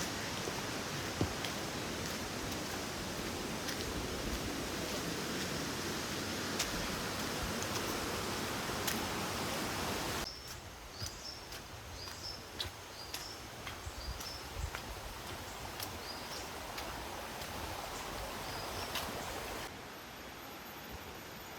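Outdoor tropical forest ambience. A steady rushing noise, then after a sudden cut a quieter background in which a bird repeats a short high chirp about once a second.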